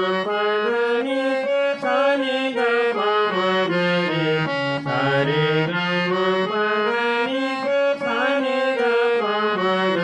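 Harmonium playing a sargam alankar at quadruple tempo (chaugun): quick runs of notes stepping up the scale and back down again, over a sustained low drone.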